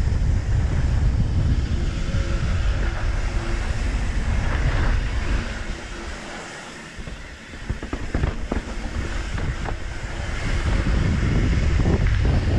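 Mountain bike descending a dirt trail: wind buffeting the microphone over the rumble of knobby tyres and the rattle of the bike. About six seconds in the ground rumble drops away for a second or so, as over a tabletop jump, then comes back with a few knocks on landing.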